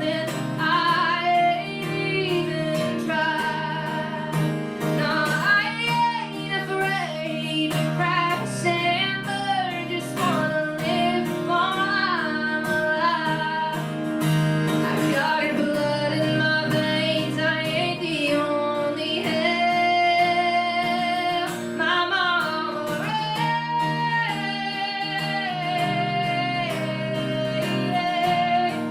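Woman singing a song with acoustic guitar accompaniment, performed live.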